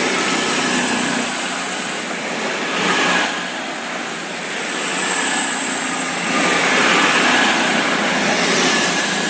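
Class 221 Super Voyager diesel-electric unit's underfloor diesel engines running, a steady loud drone with a thin high whine over it, swelling a little twice.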